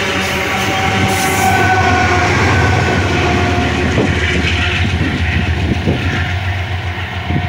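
Loaded iron-ore freight train passing at speed: a steady rumble of steel wheels on the rails, with a steady whine over it in the first half and clacks from the wheels in the second half.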